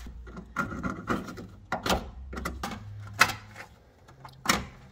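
Scattered clicks and knocks of hand tools and metal parts being handled during front-end disassembly of a car, the loudest a sharp click about three seconds in and another knock near the end.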